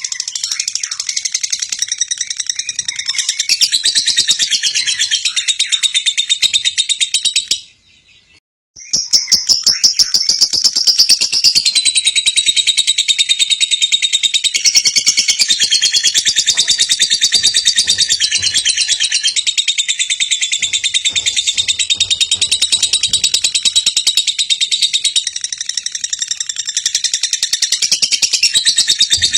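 Lovebird singing a long, rapid, high-pitched chattering trill. It breaks off for about a second a quarter of the way in, then resumes.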